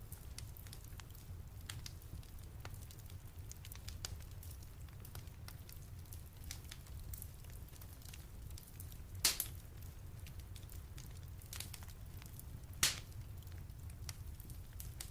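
Wood fire crackling in a fireplace: a steady run of small crackles over a low rumble, with two louder pops about nine and thirteen seconds in.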